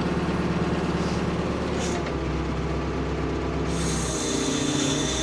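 Ford P-42 excavator's engine running steadily under work. A hiss and a higher whine join in a little before four seconds in.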